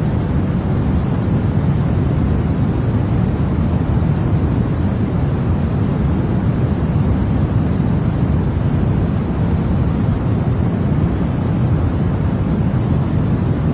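Continuous white noise for baby sleep: a steady, unchanging deep rush, heavier in the bass than in the hiss.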